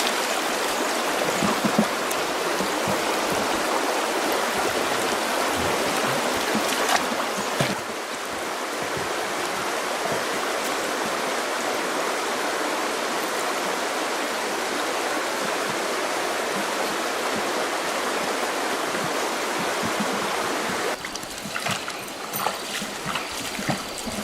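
Running water of a stream, a steady rushing that changes slightly about a third of the way in. Near the end it drops abruptly to a quieter background with scattered small clicks.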